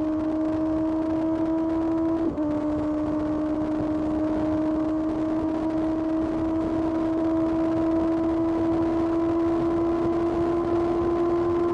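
Kawasaki ZX-6R's inline-four engine running under way at high revs, its note steady and slowly climbing in pitch, with a brief dip and catch about two seconds in, over wind and road noise.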